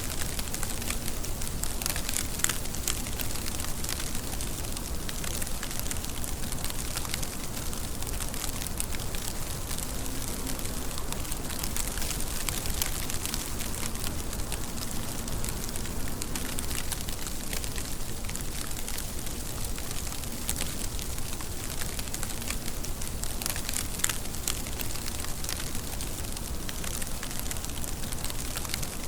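Steady rain with many small drop ticks and a low rumble underneath.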